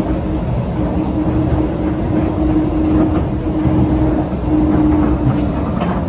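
Airport people-mover train running, heard from inside the car: a steady low rumble with a hum that drops out briefly near the start and again near the end.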